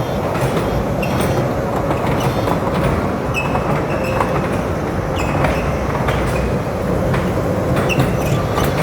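Small ride-on mall train running, a steady rumble and rattle with a constant motor hum, and a few brief high squeaks and clicks along the way.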